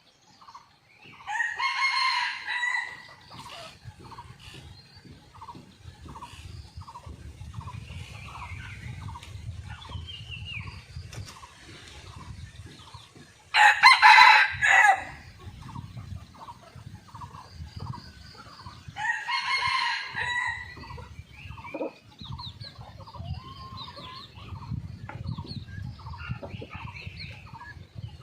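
Red junglefowl roosters crowing three times, about 1 s, 14 s and 19 s in, the middle crow the loudest. A steady series of short high pips, about two a second, runs underneath.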